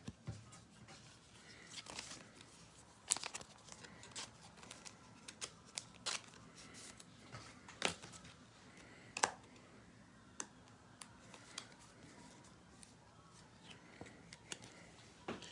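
Trading cards and their packaging being handled: scattered soft taps, snaps and crinkles, a few sharper ones in the first ten seconds.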